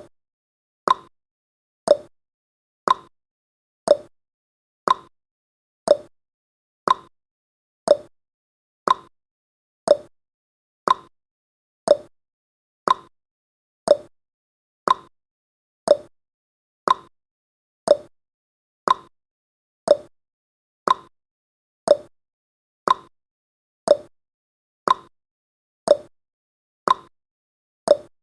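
Clock tick-tock sound effect of a countdown timer: one short tick every second, alternating between a higher and a lower tick.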